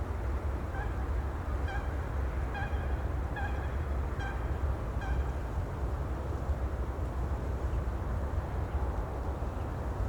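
A bird gives six short calls in a row, a little under a second apart, in the first half, over a steady low outdoor rumble.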